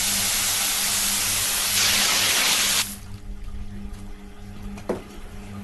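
Water running hard in a steady rush, rinsing after milk has been drawn off. It gets louder about two seconds in, then cuts off suddenly about three seconds in.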